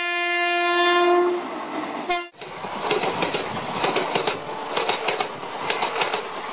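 Train horn sounding one long steady blast that fades, with a short second toot about two seconds in, followed by the running noise of a passenger train: wheels clicking over rail joints with a steady rattle.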